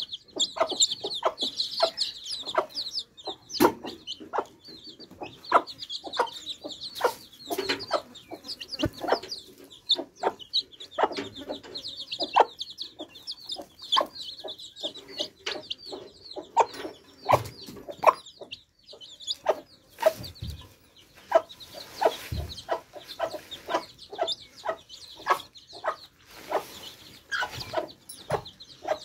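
Baby chicks peeping in a high chorus, dense at first and thinning out after about halfway, over many short sharp taps.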